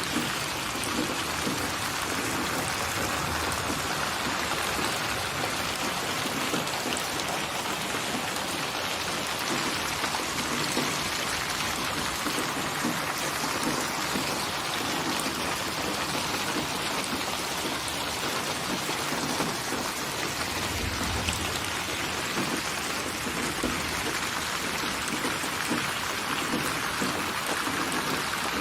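Steady rainfall, a constant hiss of many drops with fine pattering, unchanging in level.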